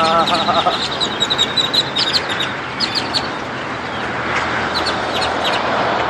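A large flock of birds calling all at once: a dense, continuous chatter of short, rapid chirps over a steady background hiss.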